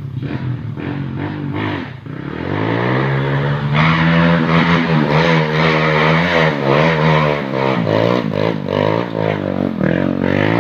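Engine being warmed up: it runs low, then about two seconds in it is revved up and held at high revs with small rises and falls, drops back near the end and climbs again.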